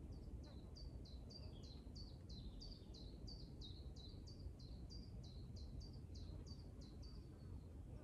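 A bird calling a long, even series of high, downward-sliding notes, about three a second, starting about half a second in and stopping shortly before the end, over a faint low background rumble.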